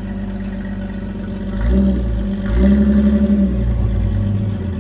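Off-road vehicle engine running low and revving up twice, about one and a half and two and a half seconds in, then easing off near the end, as a four-wheel-drive works up a rocky climb.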